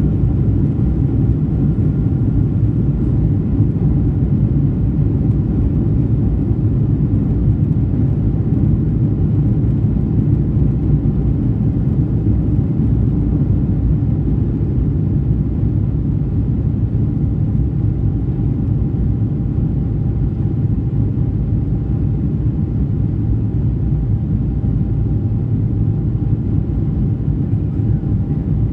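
Jet airliner engines and rushing air heard from inside the passenger cabin during takeoff: a loud, steady low rumble with a faint steady whine above it.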